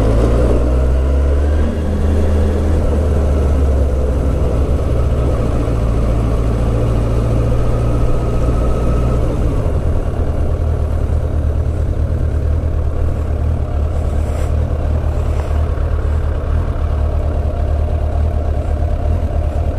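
Motorcycle engine running at low road speed with a steady low rumble, its pitch shifting briefly near the start.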